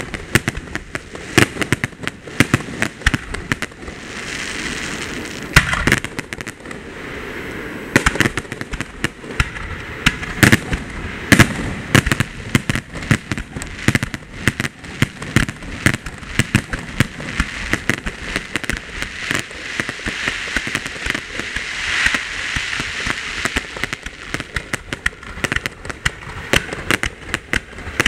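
Aerial firework shells bursting overhead in quick succession: a dense string of sharp bangs, with spells of hissing crackle a few seconds in and again about three-quarters through.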